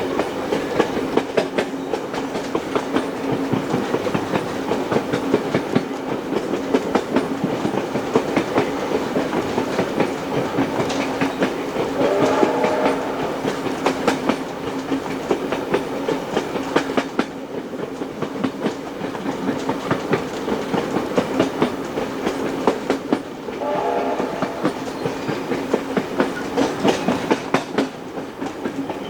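Passenger carriages running at speed behind steam locomotive 3801, wheels clicking over the rail joints under a steady hum. A short pitched whistle sounds twice, about halfway through and near the end.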